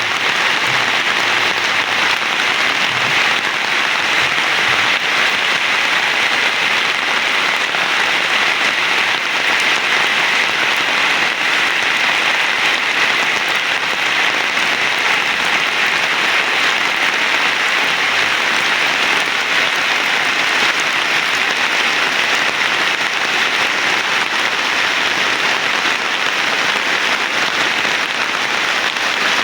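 Heavy rain pouring down, a steady, loud hiss of drops that neither builds nor eases.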